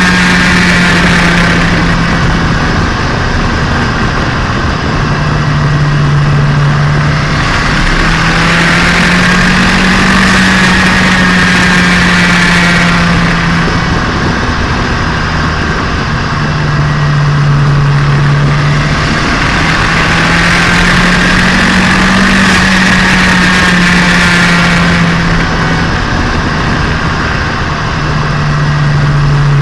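Turbocharged Nissan Micra engine running on the road during engine break-in. Its note rises and falls and steps down several times as the car is driven.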